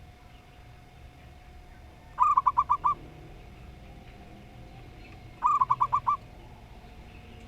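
Zebra dove (perkutut) cooing in two short bursts about three seconds apart, each a quick run of about six staccato notes.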